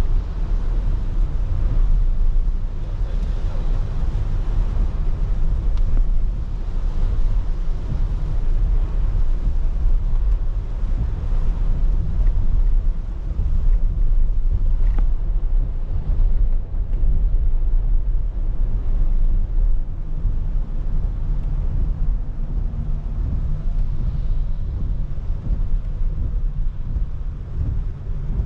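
Car driving in rain: a steady low rumble of engine and tyres on the road, with an even hiss of rain and wet road spray over it.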